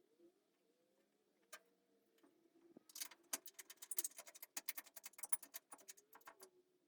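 Faint irregular clicking and ticking: a single click, then a quick uneven run of sharp clicks over the second half, with a low hum underneath.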